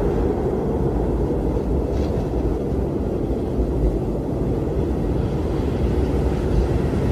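Strong blizzard wind blowing steadily, a deep, even noise with most of its weight low down.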